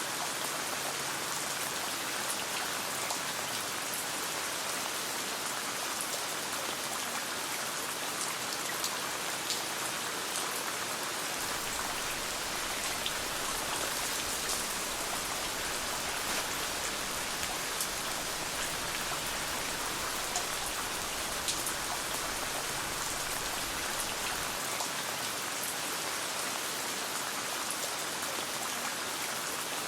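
Steady rain falling, an even hiss dotted with scattered sharp ticks of individual drops or crackles.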